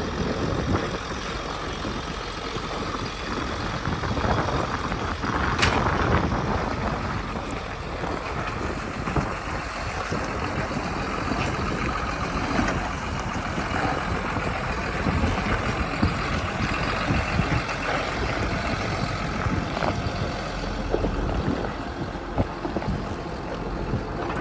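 John Deere 7720 front-wheel-assist tractor's six-cylinder diesel engine running steadily.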